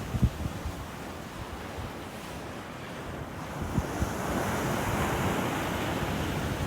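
Sea surf washing onto the shore, with wind buffeting the microphone in low thumps; the wash of the waves swells louder about four seconds in.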